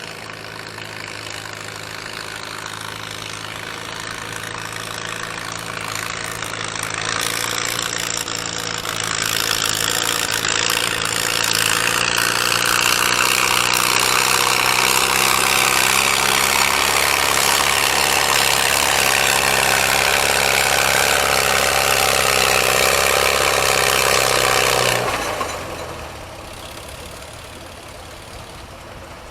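Gasoline farm tractor engine working under full load in a tractor pull, growing louder and then holding loud while its pitch slowly sags as it labours against the sled. It is throttled back abruptly near the end of the pull.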